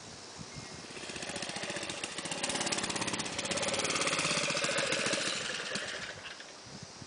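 Mini bike's small engine running as the bike rides by: rapid even firing pulses grow louder from about a second in, are loudest around four seconds, then fade away.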